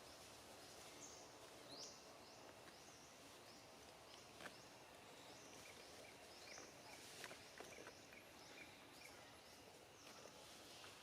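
Faint outdoor ambience with short high-pitched chirping calls repeating about twice a second, and a few soft clicks.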